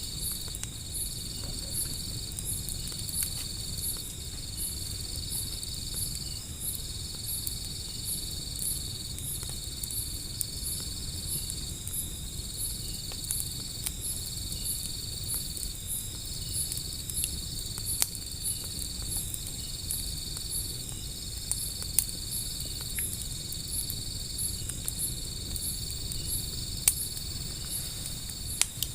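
Insects chirping steadily: one holds a long trill broken into stretches of about two seconds, while another gives quick high chirps about twice a second. A few sharp pops from a wood fire stand out over them.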